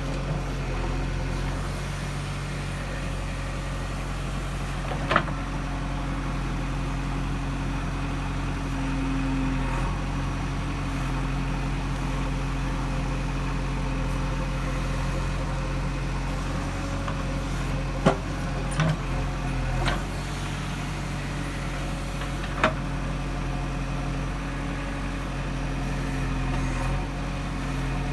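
Diesel engine of a JCB 3DX backhoe loader running steadily while it loads soil into a truck. Short sharp knocks stand out five times: once about five seconds in, three close together around eighteen to twenty seconds, and once more a few seconds later.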